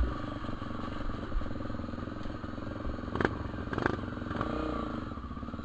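Honda Tornado 250's single-cylinder engine running at low revs on a muddy trail, with two sharp clattering knocks a little after three seconds in and a brief rev that rises and falls soon after.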